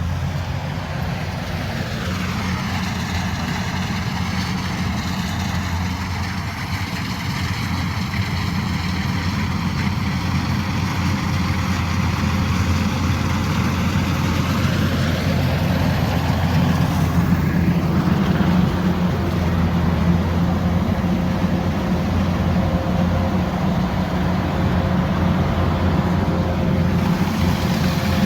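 Combine harvester's diesel engine running steadily, a continuous low drone that grows slightly louder after about 16 seconds.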